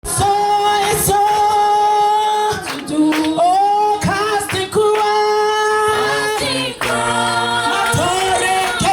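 Several voices singing together a cappella, with no instruments, holding long notes and moving between them together.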